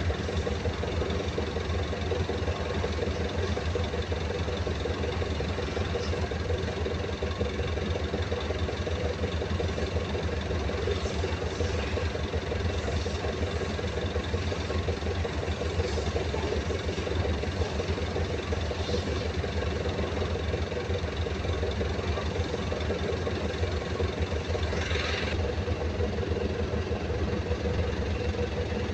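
Steady drone of an engine running at constant speed, unchanged throughout, with a few light clicks and a short scrape near the end.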